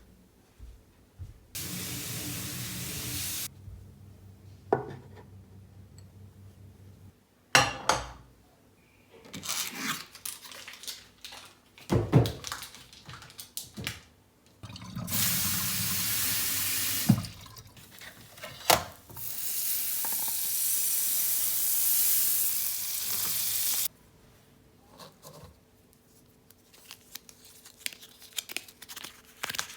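Water tap running into a sink in three spells, the longest about five seconds, with knocks and clatter of handling in between.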